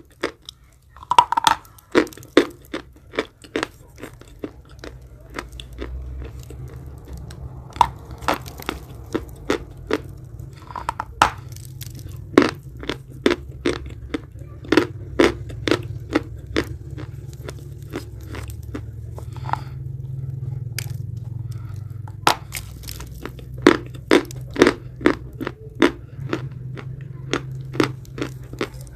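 Close-up chewing of edible chalk: sharp, crisp crunches in quick runs of several a second with short pauses between, over a low steady hum.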